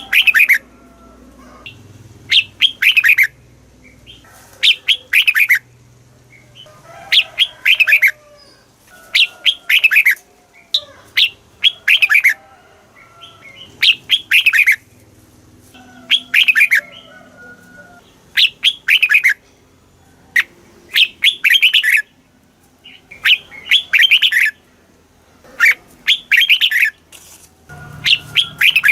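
Red-whiskered bulbul singing: short bright phrases of quick, falling whistled notes, repeated about every two seconds.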